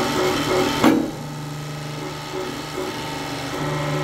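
A workshop machine running with a steady hum, and one sharp knock about a second in.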